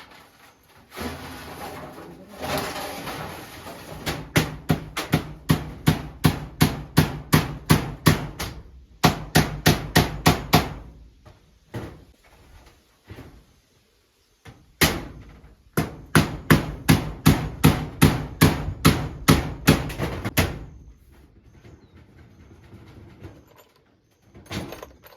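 Hammering: two runs of quick, steady blows, about two to three a second, with a pause of a few seconds between them.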